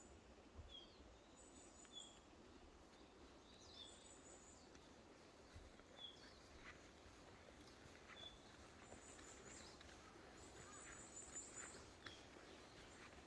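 Faint forest ambience with small birds calling: short high chirps about every two seconds and brief, very high trilled notes, over a low steady hiss.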